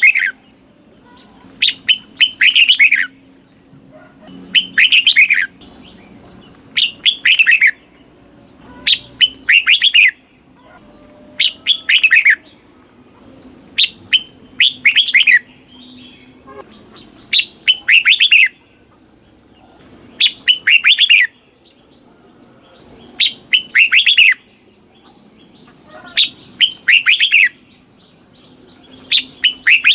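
Red-whiskered bulbul singing: short, bright, whistled song phrases with quick falling notes, repeated about every two to three seconds.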